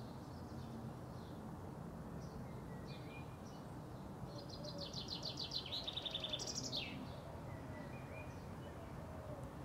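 A small songbird sings a rapid, high trill of repeated notes for about two and a half seconds, ending in a quick falling note, with a few faint chirps around it over a steady low background hum.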